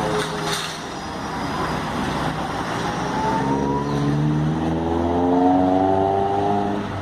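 A three-axle Caio Millennium BRT trolleybus pulling away, its traction drive giving a pitched drone that rises steadily in pitch from about three seconds in as it gathers speed.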